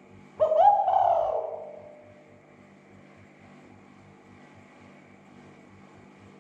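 Spotted dove (tekukur) giving one loud cooing note that starts abruptly about half a second in, bends up then slides down, and fades over a second or so. A steady low hum with a regular throb runs underneath.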